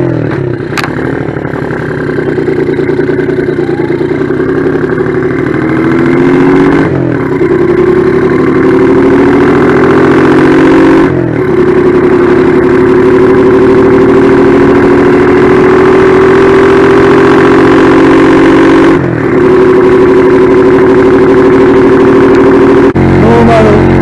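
Exhaust of a Honda Magna 88cc single-cylinder motorcycle through a variable-volume muffler, its beat shaped by a microcontroller 'Dodosuko' system into a Harley-style three-beat lope. The engine runs loud, its pitch climbing slowly with brief drops about 7, 11 and 19 seconds in, then settling lower near the end.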